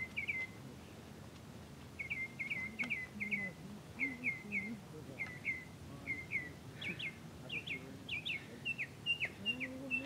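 A small bird chirping outdoors: quick runs of short notes, mostly two or three at a time. After a brief gap they come steadily, growing sharper and more frequent toward the end.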